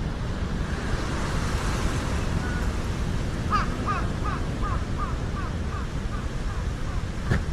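Steady low rumble of wind and surf after a typhoon. About halfway in, a bird calls a quick series of about ten short notes, roughly three a second, growing fainter. A single click comes near the end.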